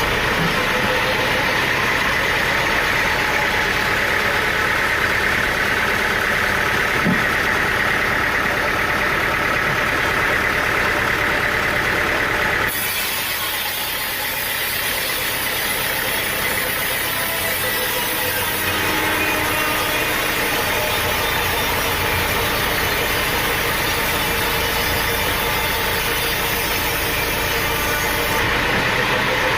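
Steady engine and machinery noise, as from a sawmill's power unit running. The character of the sound changes abruptly a little under halfway through and again near the end.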